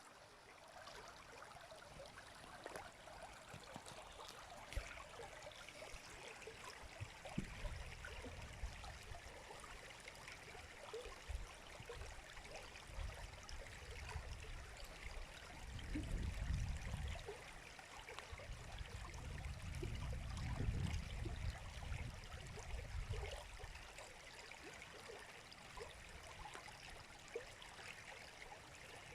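River water flowing, a steady babble with many small splashes and trickles. A low rumble swells up twice in the middle.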